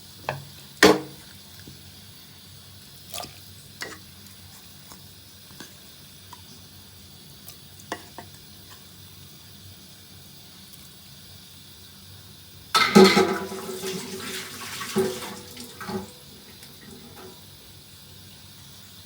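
Chicken pieces being put into a metal cooking pot with water: a few light knocks, then a louder clatter and splashing about two-thirds of the way through.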